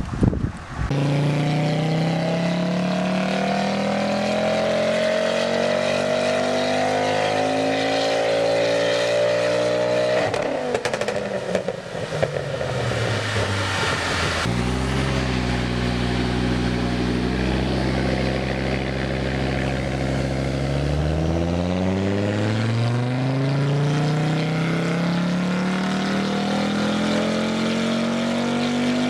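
Tuned Ford Focus RS's 2.3-litre turbocharged four-cylinder at full throttle on a dyno, its note rising steadily for about nine seconds. Then it lifts off with a burst of crackling as the revs fall, holds steady revs for several seconds, and starts a second rising pull near the end.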